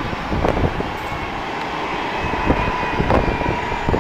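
Airport aircraft engines running: a steady rumble with a faint steady whine in the second half and a few short thumps.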